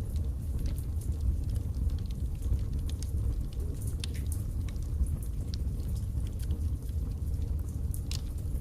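Wood fire burning in a fireplace: irregular sharp crackles and snaps over a steady low rumble of the flames.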